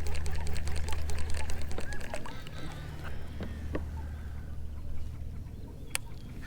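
Birds calling: short chirps and a fast clicking rattle, over a low steady hum that drops in level about two seconds in, followed by a few scattered sharp ticks.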